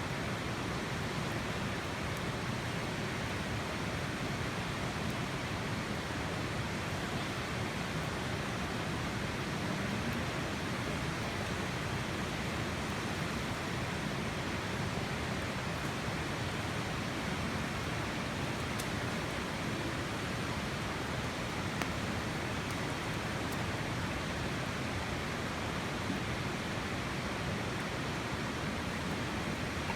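Steady, even rushing noise with a few faint, sharp ticks.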